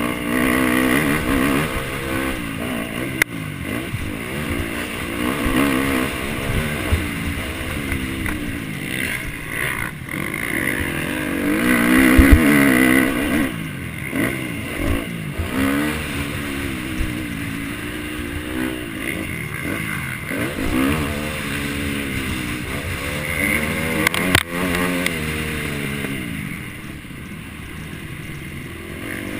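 MX1 motocross bike engine revving hard and falling back again and again as it is ridden through the gears around a race track, loudest about twelve seconds in, with a couple of sharp knocks.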